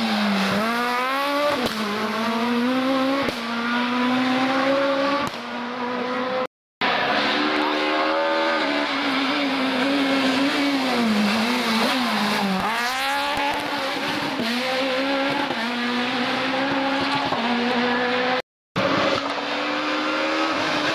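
Rally cars driven flat out on a special stage, their engines revving hard and dropping back again and again through gear changes and lifts off the throttle. Three separate passes are cut together, with a brief silence between them about six and a half seconds in and again about eighteen and a half seconds in.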